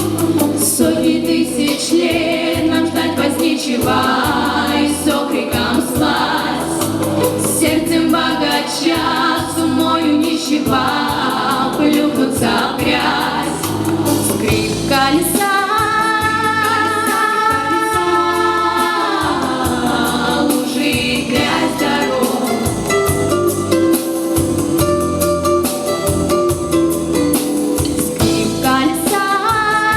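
Girls' vocal quartet singing in harmony over an instrumental backing, holding long chords around the middle.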